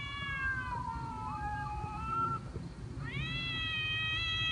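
Cat meowing: a long meow trails off, a softer one follows, and about three seconds in a long, louder meow rises and then slowly falls in pitch.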